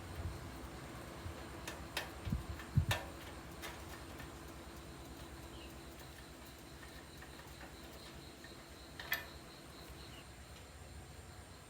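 A few scattered light clicks and taps, with two dull thumps about two and a half seconds in, over a faint steady hum.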